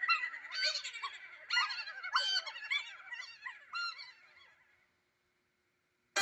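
A chorus of short honking, goose-like cries, many overlapping, fading away about four and a half seconds in.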